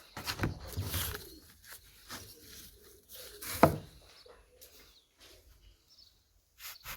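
Knocks, clatter and scraping as the gym bench seat and its old fibreboard are handled and taken apart: a cluster of knocks in the first second, a single louder knock about three and a half seconds in, and another near the end.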